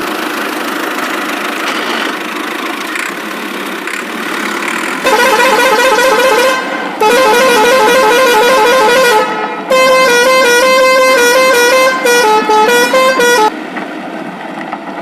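Vehicle horn sound effect over steady traffic noise. About five seconds in, a warbling horn sounds for a second and a half, then again for about two seconds. A longer stretch follows whose pitch steps up and down like a tune, and then the traffic noise continues alone.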